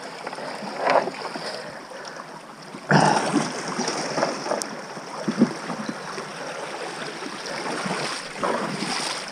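Water splashing and sloshing around a small boat being worked through a shallow river channel. A louder rush of water starts suddenly about three seconds in, with a few separate splashes after it.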